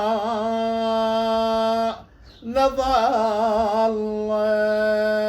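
A man's unaccompanied voice chanting an Arabic lament, drawing one word out over long held notes with wavering ornaments. There is a short breath break about two seconds in.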